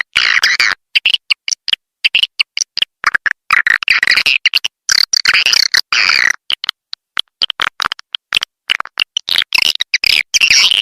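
Swiftlet lure call recording: edible-nest swiftlets twittering and chirping in a dense, rapid run of short calls broken by brief gaps. It is the kind of call sound played at swiftlet houses to draw the birds in to roost and nest.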